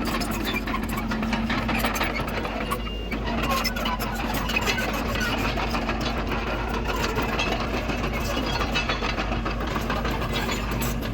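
Komatsu D31PX bulldozer's diesel engine running steadily, with a constant hum and a fine, rapid clatter over it.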